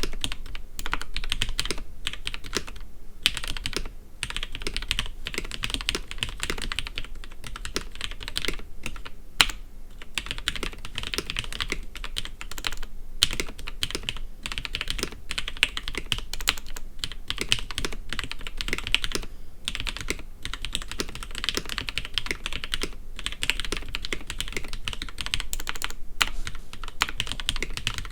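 CoolerMaster Quickfire TK mechanical keyboard with lubed, broken-in Cherry MX Red linear switches and stock keycaps, typed on in a fast, continuous stream of key presses with a few short pauses.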